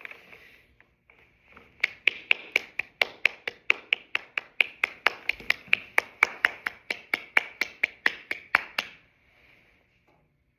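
A run of sharp, evenly spaced taps or clicks, about four a second, starting about two seconds in and stopping abruptly about seven seconds later, over a faint steady hiss.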